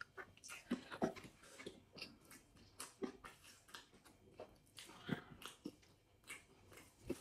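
Faint chewing and mouth smacking from people eating goat biryani by hand, with scattered short soft clicks.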